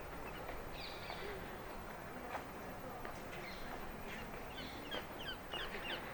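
Small birds chirping outdoors: a short burst of high chirps about a second in, then a quick run of rapid, sliding chirps in the second half, over a steady low outdoor hiss.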